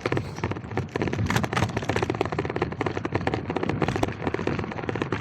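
Gravel bike being ridden over a rough, wet surface: a dense, rapid crackle and rattle over a low rumble.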